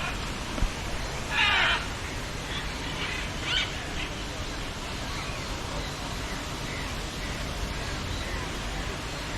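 A bird's loud, harsh call about a second and a half in, followed by a few shorter, fainter calls, over a steady rushing background hiss.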